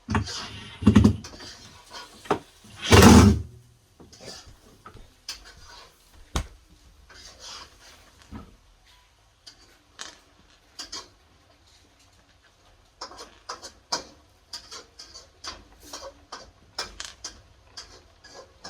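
Clicks, knocks and rattles of refrigerator parts being handled and fitted back into place during reassembly. Two loud clattering knocks come in the first few seconds, then scattered clicks, with a quicker run of clicks near the end.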